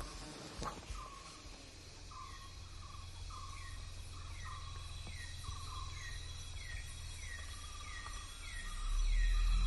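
Outdoor nature ambience: an animal's short falling call repeated about twice a second over a steady high whine. A low music drone swells in near the end.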